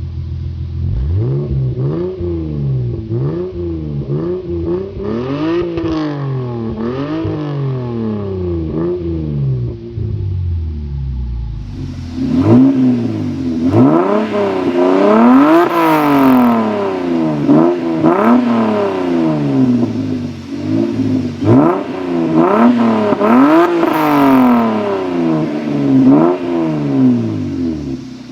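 Lexus SC300's inline-six engine revved over and over through its exhaust, each blip rising and falling in pitch about once a second. About twelve seconds in it cuts to a second, louder recording of the same kind of revving.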